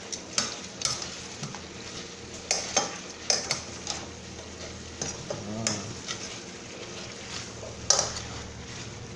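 Chicken and vegetables sizzling as they simmer in a skillet, with a utensil stirring and knocking against the pan several times.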